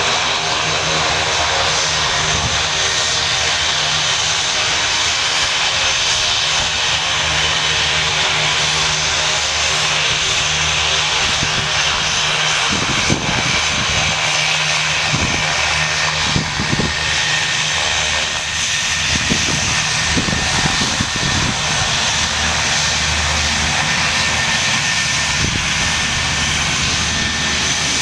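UH-60 Black Hawk helicopter running close by, its twin turboshaft engines giving a steady high whine over the rotor noise, with some louder low surges partway through.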